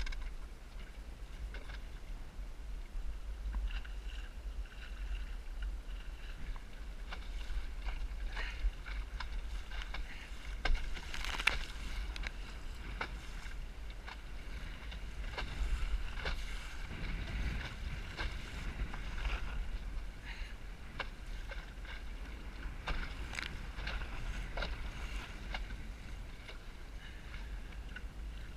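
Wind rumbling on the microphone aboard a small Snark sailboat in high wind, over a steady wash of water noise, with scattered knocks and clicks from the boat, the loudest about eleven seconds in.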